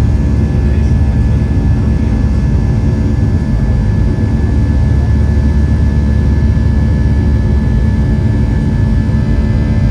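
Boeing 737-700's CFM56-7B jet engines running at high power, heard inside the passenger cabin: a loud steady rumble with steady whining tones over it.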